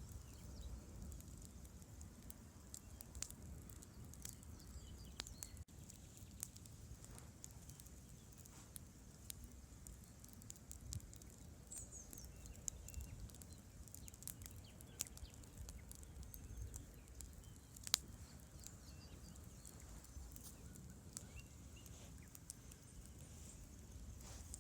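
Wood campfire crackling, with scattered small pops and one sharp crack about three-quarters of the way through, over a steady low rush from the river.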